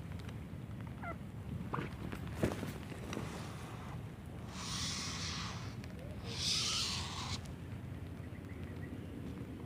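A few faint short bird calls over a steady low background noise, then two loud bursts of hissing rustle about five and six and a half seconds in.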